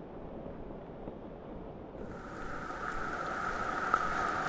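Steady rain falling on dense, wet foliage: an even rushing hiss that grows louder from about halfway through.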